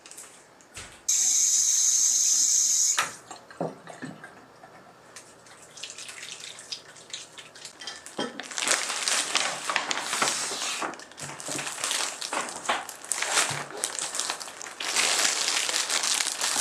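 A kitchen or bathroom tap runs for about two seconds, then water splashes and things clatter irregularly at the sink.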